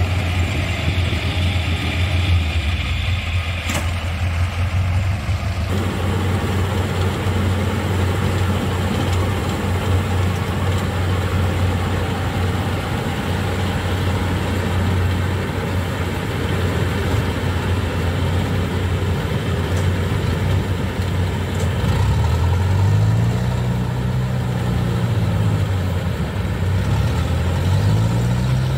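Yanmar rice combine harvester's diesel engine running steadily while pulling through deep mud, then revving up and dropping back twice near the end.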